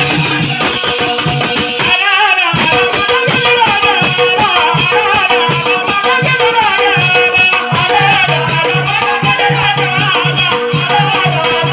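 Devotional bhajan ensemble music: a melody over a steady held drone, with a repeating drum beat and quick jingling strokes of about five a second from hand cymbals or a rattle. About two seconds in there is a brief break with a gliding note, then the beat resumes.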